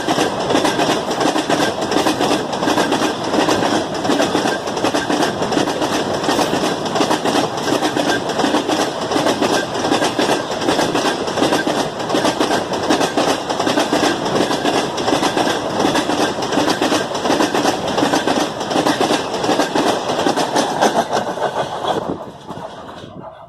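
A train's wheels clattering over the rail joints as its wagons pass at speed, a dense, continuous rattle. The noise drops off sharply near the end as the train clears.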